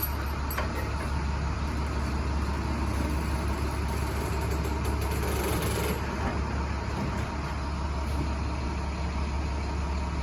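Vehicle engine idling with a steady low drone, with a sharp click right at the start.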